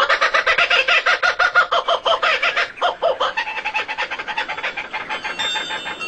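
A bird calling in a rapid run of repeated pulses, strong at first and weaker from about three seconds in.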